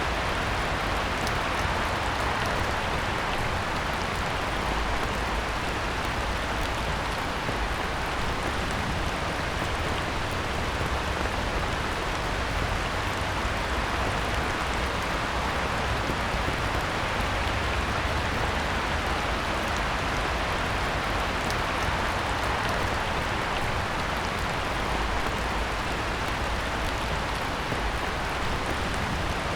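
Heavy rain falling on a pond: a steady, dense hiss with scattered sharper taps of single drops.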